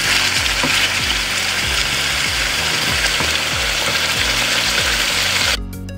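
Raw chicken pieces sizzling in hot oil in a karahi, a wooden spatula scraping as they are stirred, at the stage where the chicken is fried until it turns white. About five and a half seconds in, the sizzle cuts off and only background music remains.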